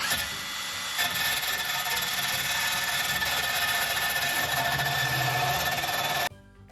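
Power grinder working metal: a steady whine over a harsh hiss that steps up about a second in and stops suddenly near the end.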